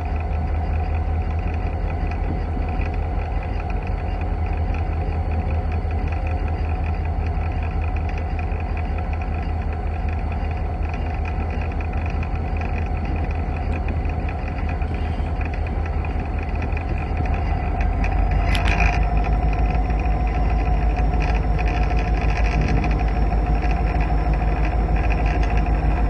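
Steady rumble and hum of an Alaska Railroad train running, with a deep low drone. It grows louder about two-thirds of the way through, where a brief sharp noise cuts in.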